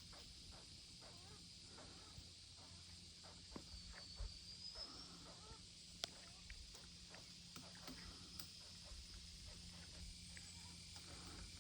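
A small woodpecker making faint, soft grunting noises, mixed with scattered light ticks and taps, over a steady outdoor background hum. A thin, high bird chirp comes about halfway through, and a single sharp click about six seconds in.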